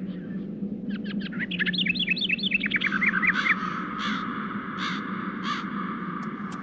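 Birds calling: a quick run of short chirping notes, then about four single calls spaced under a second apart, over a steady low hum.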